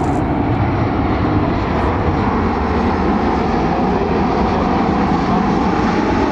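Jet airliner's engines running, a loud, steady rush of engine noise with no break.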